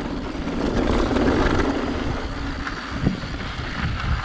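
Mountain bike rolling down a dirt trail: wind rumbling on the mic over tyre and trail noise, with a single knock from the bike about three seconds in.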